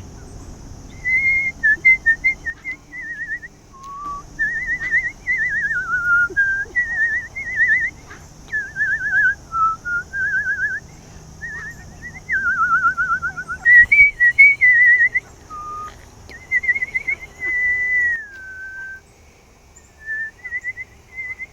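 A person whistling in short, warbling phrases with quick trilled notes and gliding pitches, dying away near the end.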